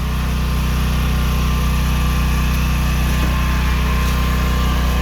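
A small engine or motor running steadily at an even speed, a low hum that does not change.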